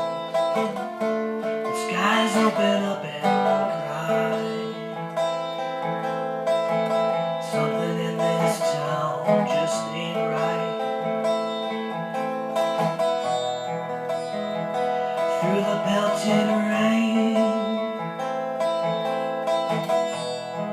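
Acoustic guitar playing an instrumental passage of a folk-style song, plucked notes ringing over held chords.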